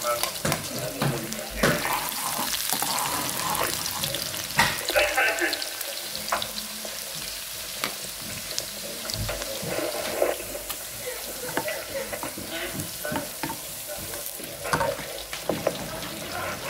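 Chopped pieces frying in hot oil in a metal pan: a steady sizzle, with scraping and clicks of a spoon stirring them.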